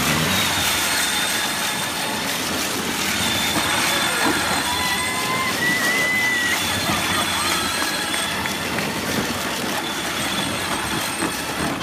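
Electric ride-on toy tractor driving: a steady rumbling noise of its wheels over the ground with a faint high whine, and a few short squeals about halfway through.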